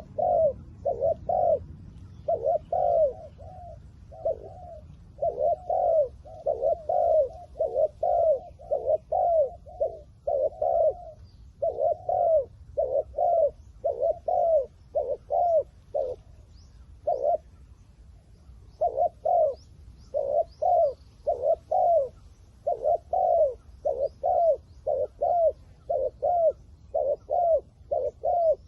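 Spotted doves cooing: rapid series of short, low, rounded coo notes, repeated over and over, with a pause of about two seconds midway before the cooing resumes.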